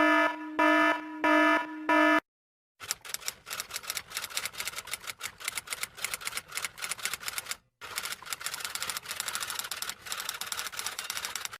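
Four short buzzer-like beeps in about two seconds, then, after a short pause, a fast clatter of typing clicks that breaks off once briefly in the middle and carries on.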